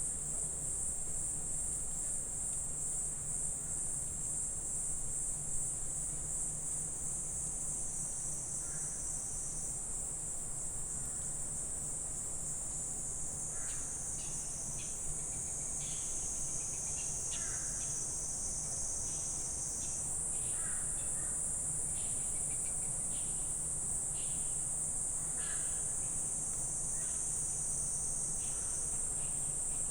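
Dense, continuous chorus of high-pitched trilling insects in summer woodland, with a fine pulsing texture, shifting slightly about two-thirds of the way through.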